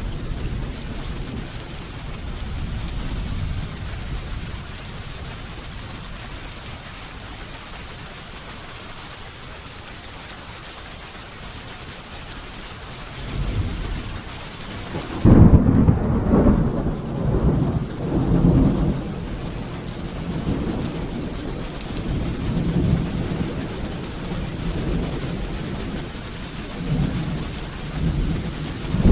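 Steady rain falling with distant thunder rumbling; about halfway through a loud, sudden thunderclap breaks, followed by rolling rumbles.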